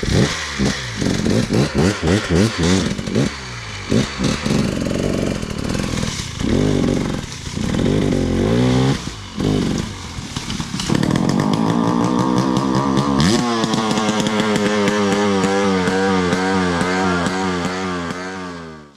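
Dirt bike engine revving in quick repeated blips of the throttle, then held at a steady high rev for about five seconds before dying away at the end.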